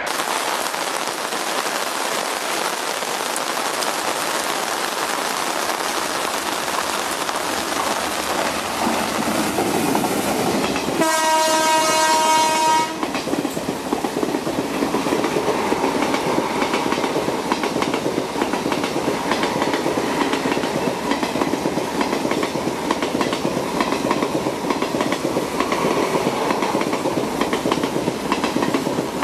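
Indian Railways express train approaching with a rising rush of wheel and air noise, then sounding its horn for about two seconds; the horn stops abruptly. After that a passenger train rushes past close by at speed, wheels clattering rapidly over the rail joints.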